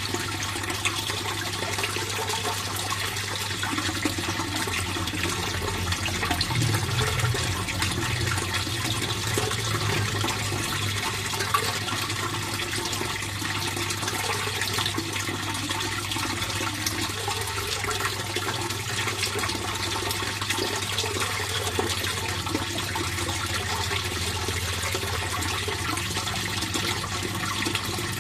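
Steady rush of flowing water in a fish pond, unbroken throughout.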